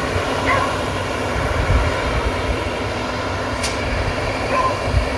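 Crop sprayer at work: steady engine and machinery noise with a low rumble, with a few short faint chirps over it.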